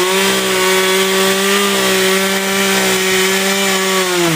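Two-stroke chainsaw held at full throttle, a steady high engine pitch that drops off sharply near the end as the throttle is released.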